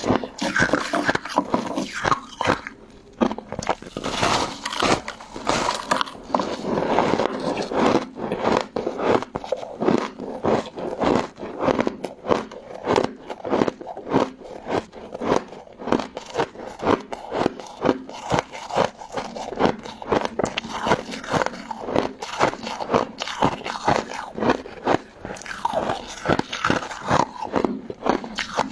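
Close-miked biting and chewing of a crunchy frozen crystal-ice and jelly dessert: rapid crisp crunches, several a second, without pause, with heavier bursts of crunching near the start, about four seconds in and near the end.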